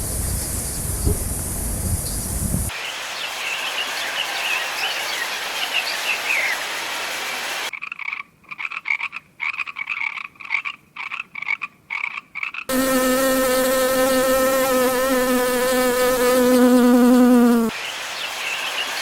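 A run of short animal sound clips. A background of chirping comes first, then a string of about ten pulsed croaking calls, then a steady, slightly wavering buzz lasting about five seconds, and the chirping returns near the end.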